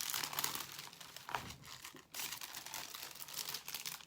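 Clear plastic protective film on a diamond painting canvas crinkling as it is handled and peeled back, with an irregular crackle that dips briefly about two seconds in.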